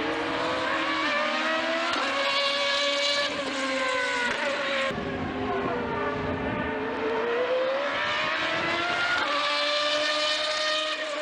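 Honda HSV-010 race car's V8 at high revs, climbing in pitch through the gears. The pitch drops sharply at each upshift, about three times, then rises again.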